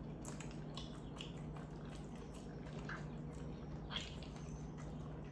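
Close-up chewing of a mouthful of cheesy pasta: a run of soft wet mouth clicks and smacks. About four seconds in, a metal fork clinks against the glass baking dish.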